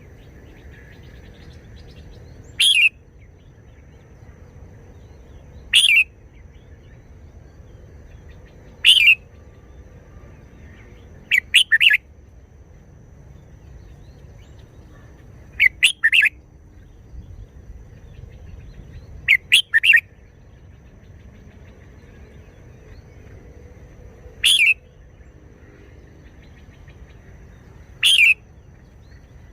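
Red-whiskered bulbul singing short, loud, whistled phrases every three to four seconds, some given in quick pairs or threes, over a faint low hum.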